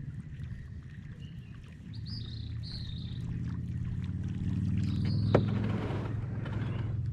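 A few bird chirps over a low steady hum that grows louder, with one sharp click about five seconds in followed by a short rushing noise, as a kayak angler handles his rod and reel.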